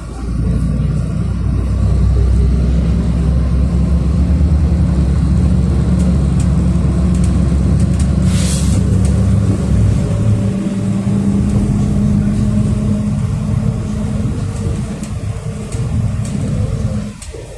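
City bus engine pulling away under load, heard from inside the cabin: a loud low drone with a steady engine note. It eases off about ten seconds in and drops away near the end, with a short hiss about eight seconds in.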